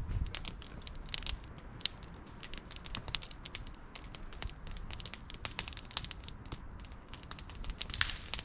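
Campfire crackling, with many irregular sharp snaps of burning wood.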